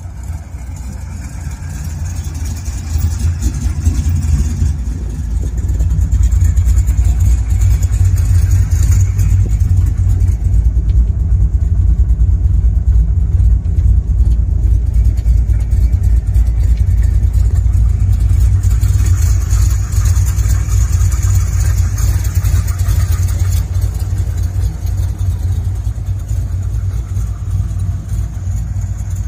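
1972 Corvette's LT-1 small-block V8 idling steadily with a deep, even rumble, growing louder over the first several seconds.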